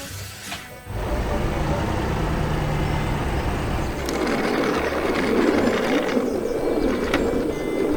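A heavy vehicle's engine running with a low, steady rumble, growing rougher and noisier from about four seconds in.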